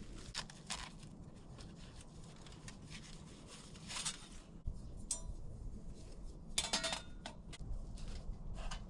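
Glass bottles and metal cooking gear being handled: scattered light clinks and knocks, a couple of them with a brief ringing tone.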